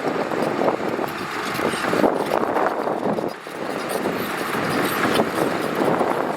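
Heavy earthmoving machinery working gravel: a steady, crackling, grinding noise of stones being moved, with a brief dip about three and a half seconds in.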